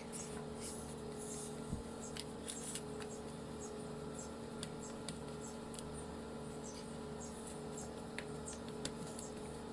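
Faint crackles and small clicks as shredded kunafa dough is pressed down into a pan by hand, over a steady low hum and faint repeating high chirps.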